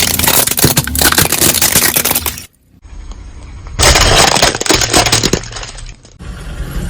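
A car tyre rolling over and crushing brittle objects: dense crackling and crunching over a low engine rumble, in separate bursts with abrupt cuts about two and a half seconds in and again near six seconds.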